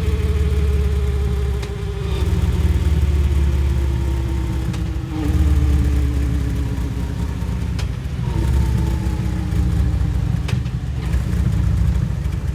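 Harley-Davidson Electra Glide Classic's V-twin running through Vance & Hines Eliminator 400 slip-on mufflers, with a deep exhaust note. The engine picks up slightly about every three seconds, four times, and slowly settles back down each time.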